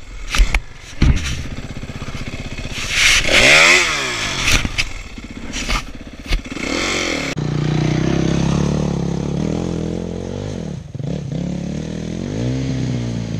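Dirt bike engine revved up and back down in short blips, with clattering knocks in the first second or so. About halfway through it settles to a steadier run, with another rev near the end.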